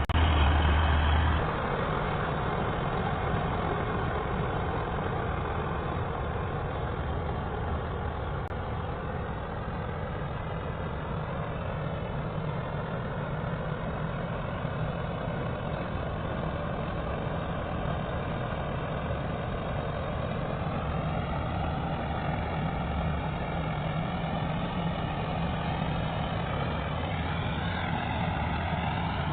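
Chardikala combine harvester running steadily, its engine and machinery giving a continuous low hum; a louder low droning drops away about a second and a half in.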